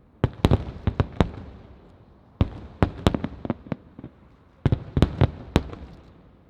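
Aerial firework shells bursting in quick volleys: sharp bangs in three clusters about two seconds apart, each trailing off in a fading rumble.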